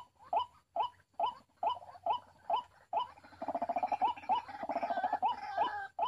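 White-breasted waterhen calling: a monotonous run of short hooked 'kru-ak' notes, about two a second. About three seconds in, a fast stuttering croak joins underneath the notes.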